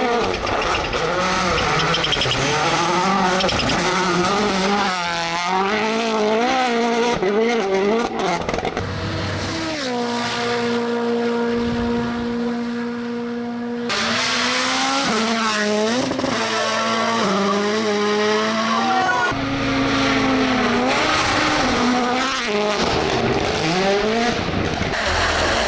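Rally car engines revving hard, their pitch climbing and dropping again and again through gear changes. About ten seconds in, one engine holds a steady pitch for about four seconds before the revving picks up again, with sudden changes suggesting several different cars.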